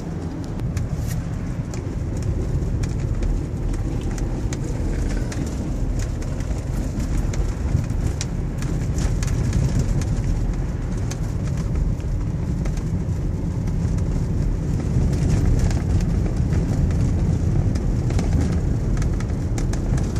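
Car driving on snowy roads: a steady low rumble of engine and tyres, with many faint scattered ticks over it.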